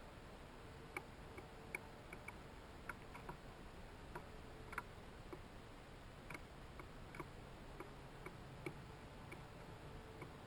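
Faint, irregular ticks and taps, about a dozen scattered unevenly, from birds and chipmunks feeding at seed feeders, over a faint steady hum.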